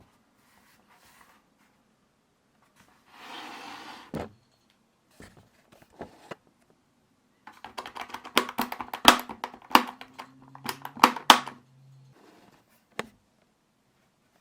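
Desk fan being handled, giving sharp clicks and knocks. There is a brief rustle about three seconds in, a few single knocks, then a dense run of clicks lasting about four seconds past the middle.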